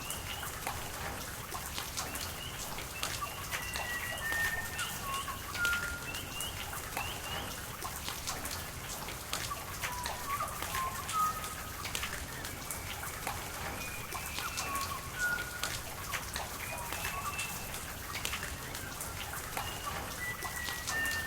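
Rain falling with many sharp drips over a steady hiss of running water, while a bird keeps repeating short whistled notes.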